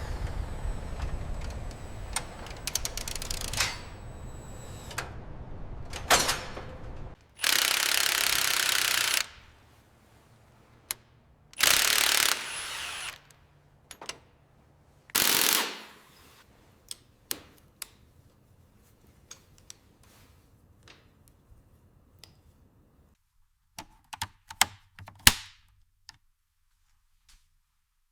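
Workshop tool sounds during mechanical reassembly. First comes about seven seconds of steady machine noise, then three short, loud bursts from a power tool, then scattered metallic clicks and ticks of hand tools such as a ratchet, with a quick run of clicks near the end.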